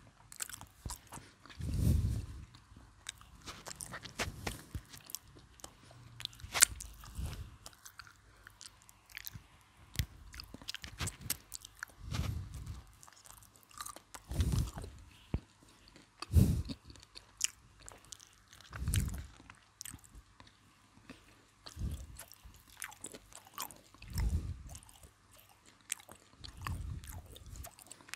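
Chewing and biting of crispy breaded McDonald's fried chicken: soft, low chews come every two or three seconds, and sharp crackles from the crust fall in between.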